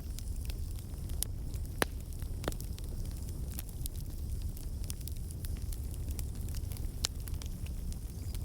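Fire burning in a fireplace, crackling with scattered sharp pops over a steady low rumble; the loudest pops come about two seconds in and again about seven seconds in.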